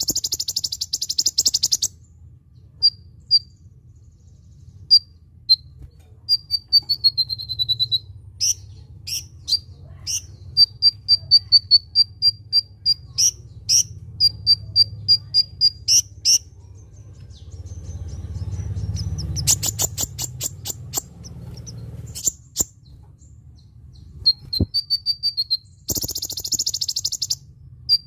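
Sunbird ('kolibri ninja') singing: strings of short, thin, high whistled notes, a falling run of notes, and several fast buzzy trills, over a low steady hum.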